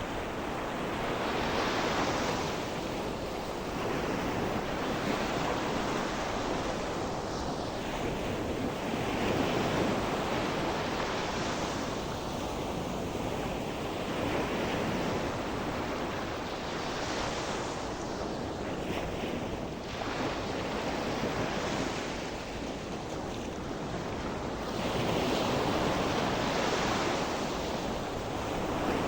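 Ocean surf: waves breaking and washing on the shore, the hiss swelling and ebbing every few seconds, with some wind on the microphone.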